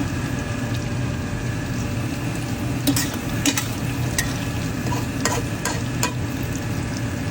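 Food frying in a pan: a steady sizzle, with sharp pops scattered through the middle.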